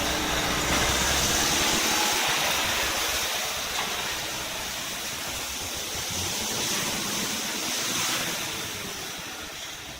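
A vehicle driving off-road: its engine running under a loud rushing hiss, the engine note fading after the first second while the hiss swells and eases twice.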